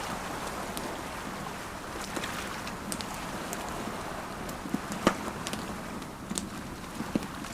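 Ocean waves washing steadily, mixed with a crackling campfire: scattered sharp pops of burning wood, the loudest about five seconds in.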